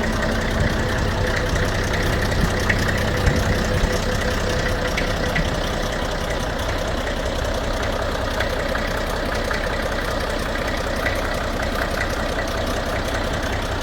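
Fordson E27N tractor's Perkins P6 six-cylinder diesel engine idling steadily.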